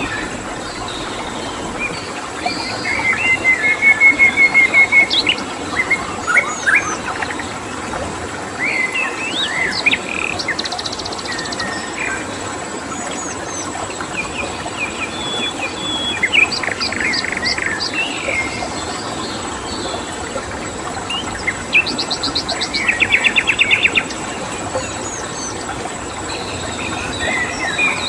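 Several songbirds chirping, whistling and giving short rapid trills over a steady even hiss of flowing water, with a thin steady high note throughout.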